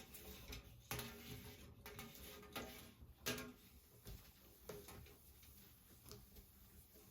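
Quiet handling sounds: a few light taps and clicks of objects being set down or moved, the clearest about a second in and just after three seconds in.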